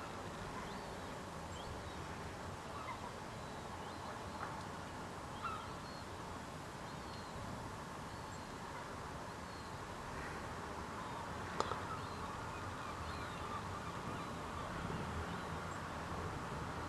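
Steady hiss of falling rain, with scattered short bird calls over it and a single sharp click about two-thirds of the way through.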